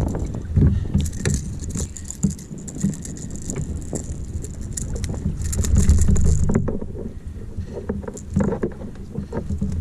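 Rattling and knocking of fishing gear and the hull of a fishing kayak as it is handled, with many short clicks over a low rumble. A thin high whirr runs through most of the first two-thirds.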